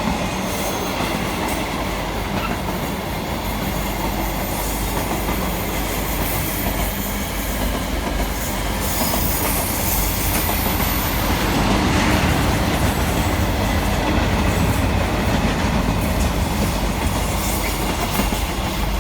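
Class 350 Desiro electric multiple unit arriving at a station platform, its wheels running on the rails with a steady low rumble that grows somewhat louder about halfway through.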